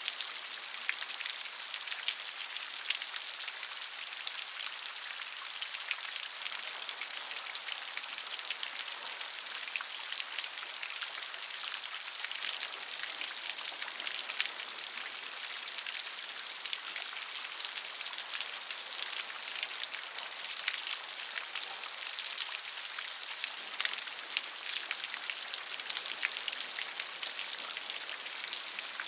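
Steady rain falling, a dense high hiss of many small drops striking a surface with fine individual drop taps throughout.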